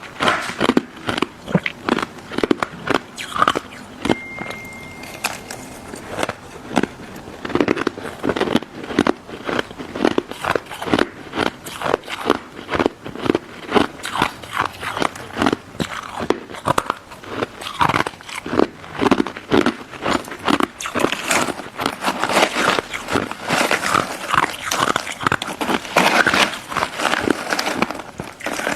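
Close-miked biting and chewing of a crunchy crystal snow ice dessert: a rapid, continuous series of crisp crunches, several a second.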